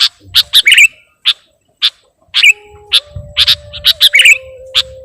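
Sooty-headed bulbul (kutilang) calling: a rapid, irregular string of short, sharp chirps, some in quick pairs. A faint steady hum comes in about halfway.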